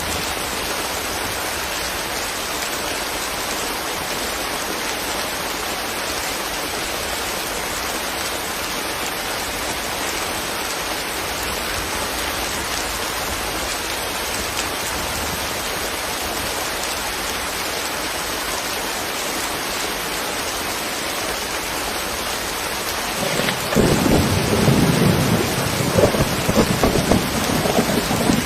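Steady rain falling, an even hiss. About 23 seconds in, a low rumble of thunder comes in and grows louder, rolling on near the end.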